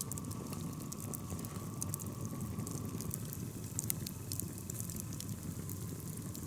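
Wood campfire crackling with scattered small pops, over a low steady rush from the kettle of water heating on the fire toward the boil. A faint thin tone fades out about three seconds in.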